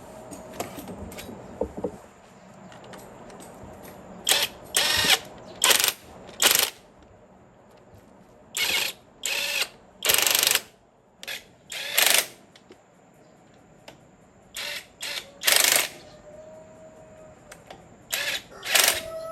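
A mechanical tool run in short bursts, about a dozen of them, each under a second, with short pauses between.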